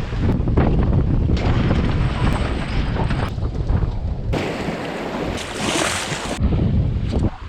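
Strong wind buffeting the microphone aboard a sailboat under sail, with water rushing past. Partway through, a hissing wash takes over for about two seconds while the rumble drops away.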